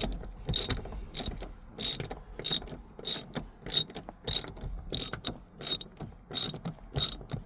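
Hand ratchet with an extension and T45 Torx bit tightening a seat armrest bolt, its pawl clicking in a steady rhythm of about one click every two-thirds of a second as the handle is swung back and forth.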